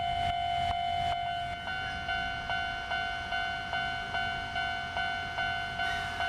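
Japanese railway level-crossing warning bell ringing in a steady, even rhythm of about two and a half strikes a second. A second, higher tone joins about a second and a half in, and a falling tone begins just before the end.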